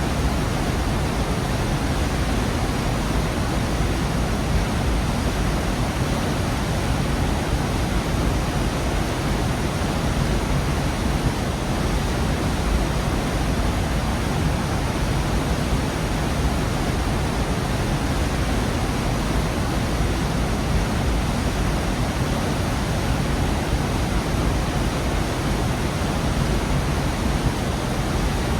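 Waterfall in a rocky gorge: a steady, unbroken rush of falling water, heaviest in the low rumble.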